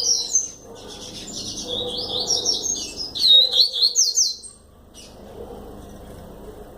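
Double-collared seedeater (coleiro) singing a fast run of high chirped notes that stops about four and a half seconds in.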